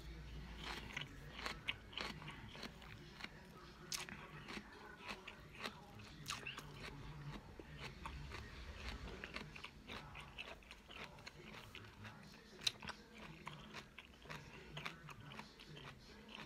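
A person chewing a mouthful of raw kale slowly and thoroughly, with many small, irregular crunches.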